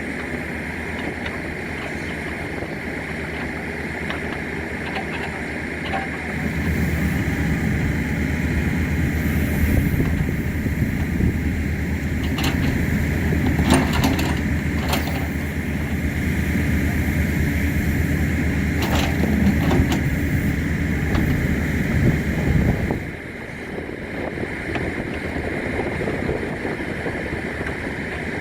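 Excavator engine running steadily, then working harder from about six seconds in for some fifteen seconds, with a few sharp knocks along the way. It drops back to a lower running sound near the end.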